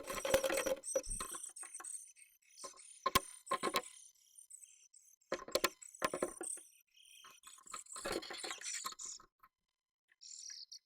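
Japanese tit moving about inside a nest box, close to the microphone: bursts of scratching and tapping in four clusters, with a few sharp clicks.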